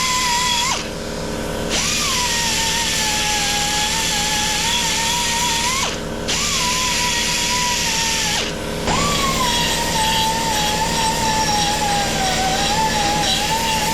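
Small belt grinder running under load against an alloy gearbox casing, smoothing down the casting seams. Its whine wavers in pitch as it is pressed on, and three times it briefly eases off and winds back up.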